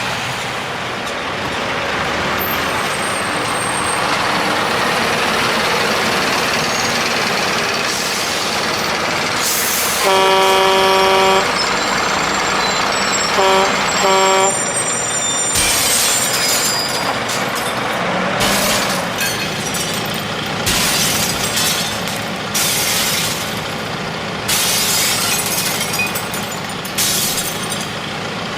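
Heavy truck sounds: a diesel truck running, then a long horn blast about ten seconds in and two short toots a few seconds later. After that come repeated bursts of air-brake hiss.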